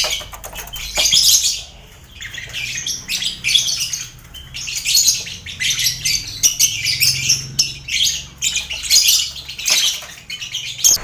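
Mixed colony of lovebirds, finches and quail in an aviary: many birds chattering and chirping at once, high-pitched and overlapping, in uneven bursts that swell and fall every second or so.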